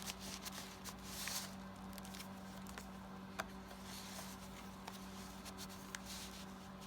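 Paper tags and card being handled, with soft rustles and light taps scattered through, over a steady low hum.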